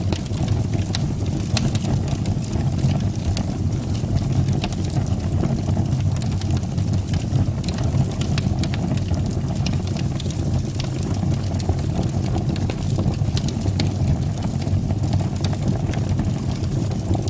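Fire burning in a fireplace: a steady low rumble of flames with frequent small, sharp crackles and pops throughout.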